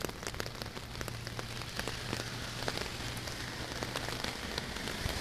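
Heavy rain falling: a steady hiss with many small, sharp drop ticks.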